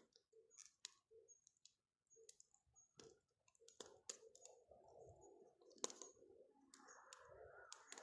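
Bonfire crackling quietly: sparse, sharp pops and snaps of burning wood, with a soft rushing noise building from about four seconds in.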